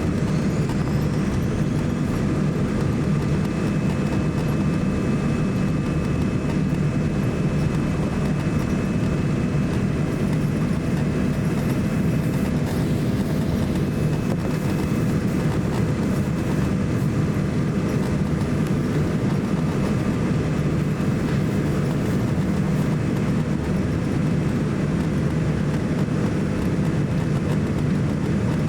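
Steady cabin noise inside a Boeing 787-9 airliner: a dense low rumble of its Rolls-Royce Trent 1000 engines and airflow, with a few faint steady whining tones above it.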